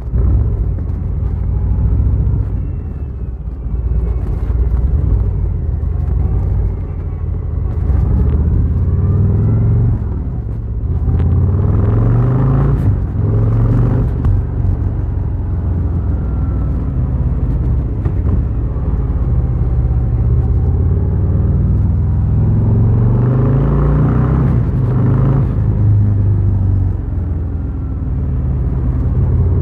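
Harley-Davidson Fat Boy's V-twin engine running on the move, with wind noise. The engine rises in pitch under acceleration twice, about a third of the way in and again past the middle.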